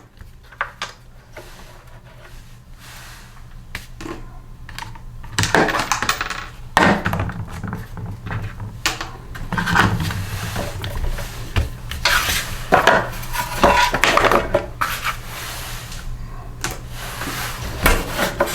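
Irregular metal clinks, clatters and knocks of hand tools, sockets and bolts handled against a small engine's metal parts during disassembly, in several louder clusters.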